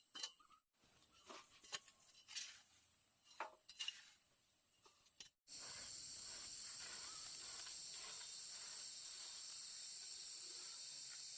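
A few scattered light knocks and clicks from work, then, after an abrupt cut about five seconds in, a steady high-pitched insect chorus of crickets or cicadas.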